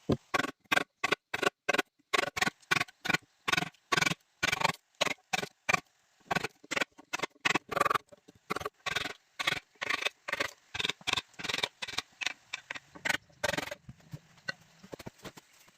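Rapid, steady blows of a tool striking bamboo, about three a second, stopping shortly before the end.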